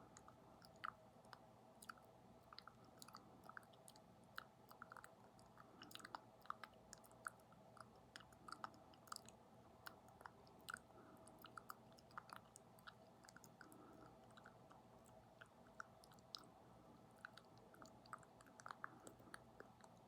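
ASMR mouth sounds: quiet, irregular wet clicks and smacks of lips and tongue close to the microphone, a few every second.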